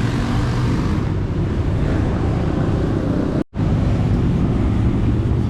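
Steady low rumble with hiss above it, broken by a brief dropout about three and a half seconds in.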